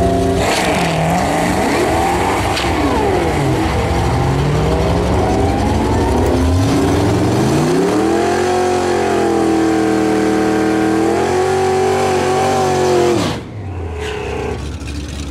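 Procharger-supercharged Ford Mustang GT's 4.6-litre V8 making a full-throttle drag-strip pass. After the launch the engine note climbs and drops with each gear change, then holds high and steady, and cuts off sharply near the end.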